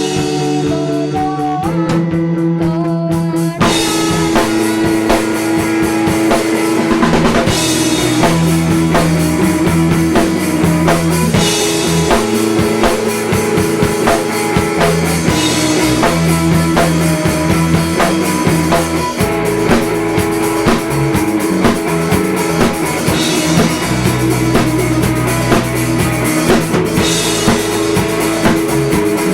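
Live indie-pop band playing without vocals. Guitar notes sound alone at first, then the drum kit comes in about three and a half seconds in and the full band plays on with a steady beat.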